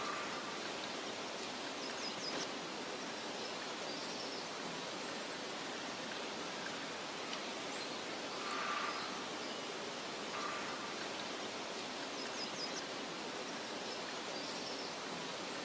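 Meadow ambience: a steady soft wind hiss rustling through grass, with a few faint, short bird chirps now and then.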